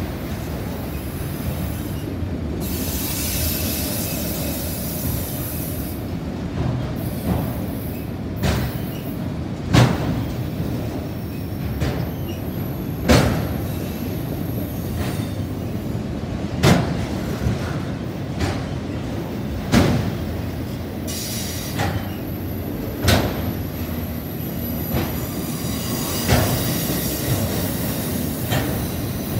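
Freight train of autorack cars rolling past at close range: a steady rumble of wheels on rail with a sharp clack about every three seconds, and a faint high wheel squeal at times.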